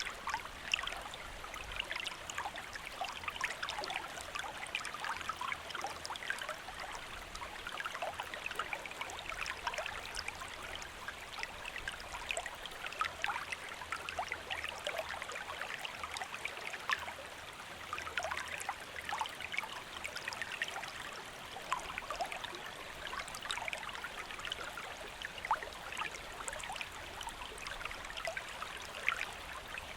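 Shallow stream flowing steadily, water trickling and splashing over stones in a continuous busy babble.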